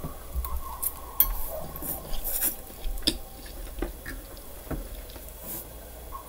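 Close-up eating sounds: irregular short clicks and smacks from biting and chewing food. The loudest click comes about a second in, and the clicks thin out near the end.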